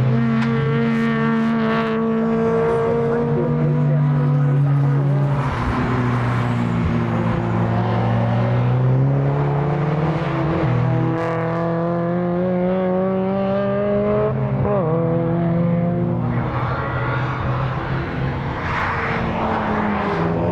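Modified time-attack race car engines running hard on a circuit. The engine note climbs steadily for several seconds and drops sharply, like a gear change, about fifteen seconds in, with noisier swells as cars pass.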